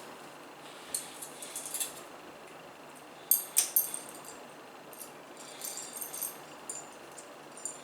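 Small hardware parts of a CPU cooler mount, plastic caps and metal brackets and screws, clicking and rattling lightly as they are handled, in several short clusters.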